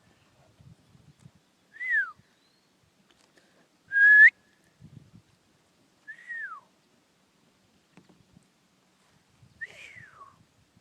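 Whistled notes traded back and forth: a person whistling a short rising note, the loudest sound, about four seconds in, and a bird answering with softer falling whistles, three times over, copying the whistle.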